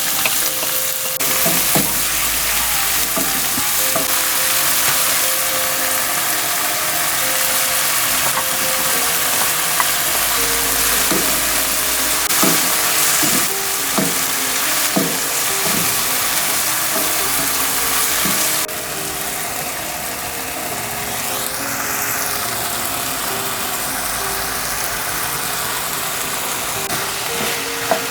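Kimchi fried rice sizzling as it is stir-fried, with the odd click of a spatula against the pan. The hiss changes character about two-thirds of the way through.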